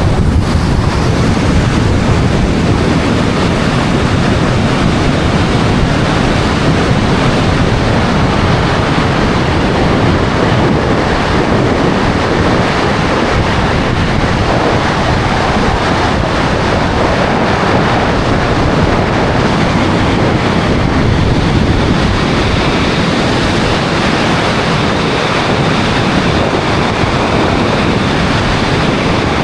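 Loud, steady rush of wind and water, with wind buffeting the microphone.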